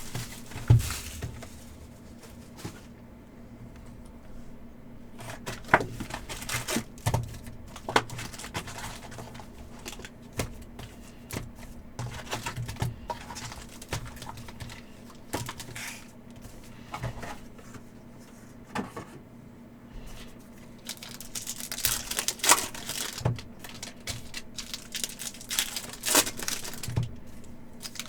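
Trading card packs being handled and torn open: wrappers crinkling and tearing, with many quick, irregular clicks and snaps of cards being flicked through.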